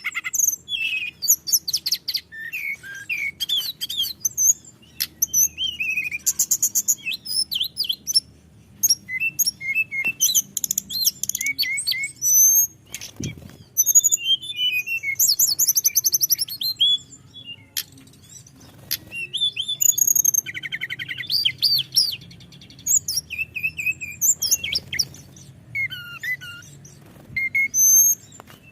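Tledekan gunung (sulingan gunung) songbird singing a long, varied run of high whistles, trills and chirps with short pauses between phrases.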